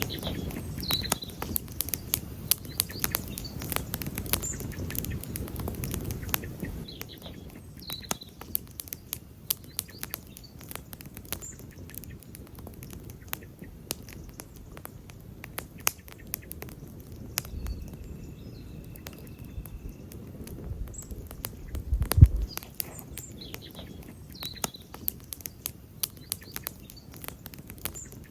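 Campfire crackling: a continuous run of sharp pops and snaps from burning wood, with low rumbles in the first few seconds and again briefly about 22 seconds in.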